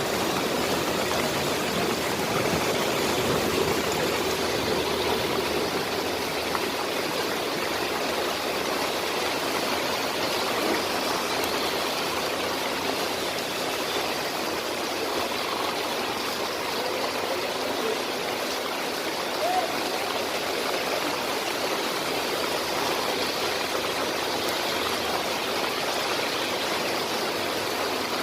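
Heavy rain falling on open water, a steady, even rush with no let-up.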